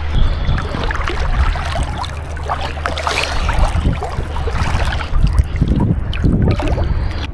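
Shallow sea water sloshing and splashing irregularly around a swimmer, over a steady low rumble of wind on the microphone.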